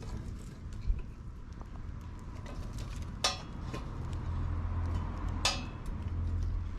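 Two sharp metallic clinks about two seconds apart, over light scattered ticking and a low rumble.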